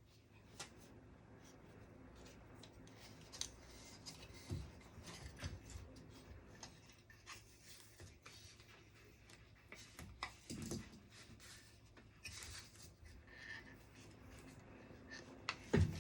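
A pen scratching on paper, with rustling and small clicks of things handled on a desk. A few soft knocks come through, about four and a half seconds in, near eleven seconds, and the loudest one just before the end.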